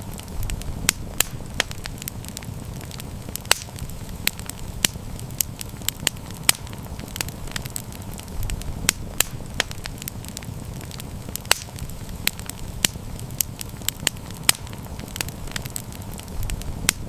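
Campfire burning with a steady low rumble and irregular sharp crackles and pops of burning wood, several a second.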